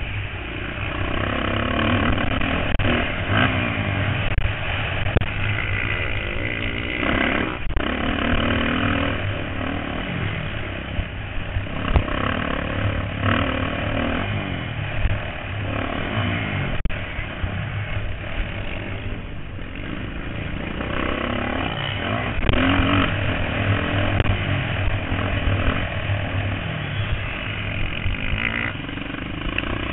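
Motocross dirt bikes racing, their engines revving up and falling off again over and over as riders accelerate and shift around the track.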